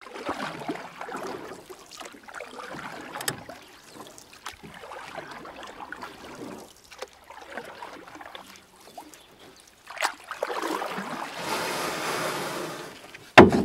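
Sea water sloshing and lapping around a kayak inside a sea cave, with paddle splashes and small knocks. About ten seconds in a wave surges through with a rushing wash, and a sharp loud knock comes just before the end.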